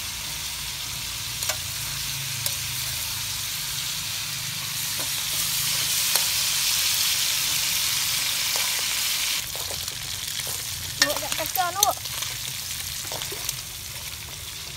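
Frog pieces frying in hot oil in a steel wok, sizzling steadily while a metal spoon stirs them and scrapes and clinks against the pan. The sizzle swells louder about five seconds in and eases after about nine seconds, with a few sharper clinks around eleven to twelve seconds in.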